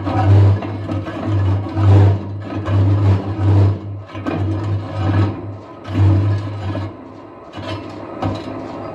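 Metal lathe turning a steel truck wheel rim, the cutting tool scraping the rim's uneven cut edge in a pulsing hum about twice a second. It eases off near the end.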